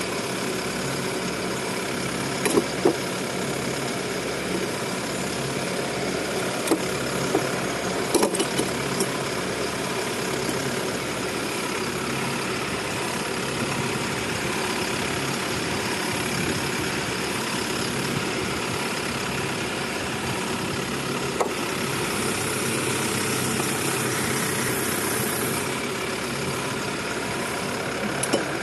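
Drilling rig's engine running steadily, with a few sharp clicks and knocks over it, most of them in the first nine seconds, and a short hiss later on.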